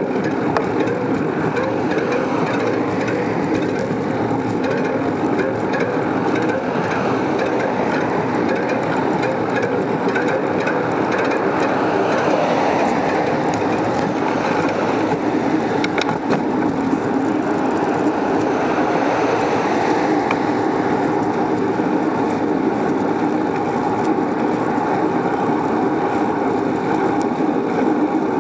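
Steady rushing noise of a moving bicycle ride, wind and road noise on the microphone, with a faint click about halfway through.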